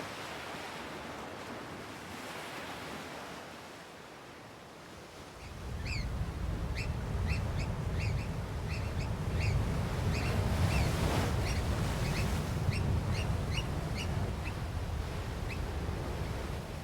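African black oystercatchers giving a run of short, sharp piping calls, about one or two a second, starting about five seconds in. Under them, steady surf noise, joined by a low rumble when the calls begin.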